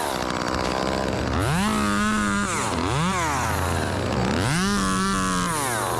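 Two-stroke chainsaw revved from idle to full throttle and back, three times: two revs held for about a second and one short blip between them.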